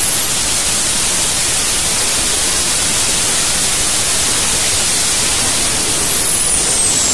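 AI-9V small gas-turbine engine running at full speed, a loud steady roar with a high turbine whistle. Near the end the whistle starts to drop in pitch as the engine spools down.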